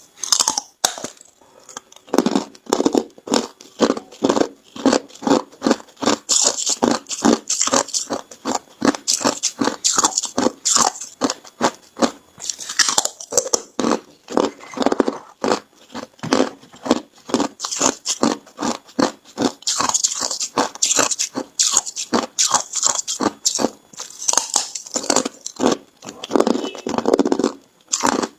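Ice being bitten and chewed close to the microphone: a rapid, continuous run of sharp crunches as hard clear ice and crushed ice are broken between the teeth.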